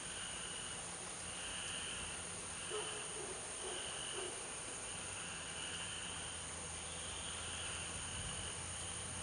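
Night insects calling: a steady high drone with a pulsing chorus that swells and fades about once a second.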